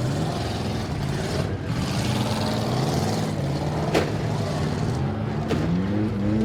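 Demolition derby car engines running and revving up and down, with a sharp bang of a collision about four seconds in and a lighter knock a second and a half later.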